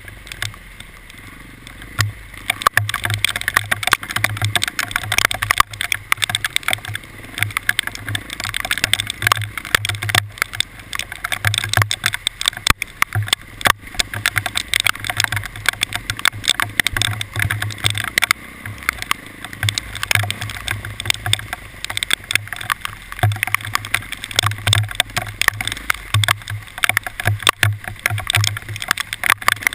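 A vehicle on the move under a dense, irregular patter of many small impacts, with uneven low buffeting underneath.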